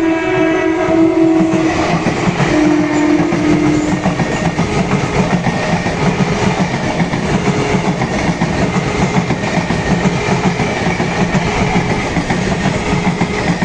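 A train sounds two long horn blasts in the first four seconds while passing close by. The passing train makes a loud, steady rumble with wheels clattering over the rails.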